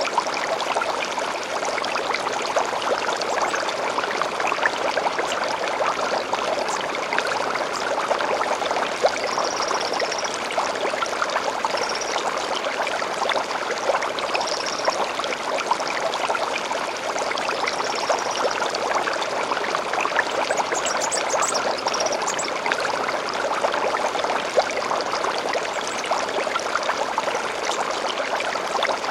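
Small stream flowing steadily over stones, with a few short high bird chirps now and then.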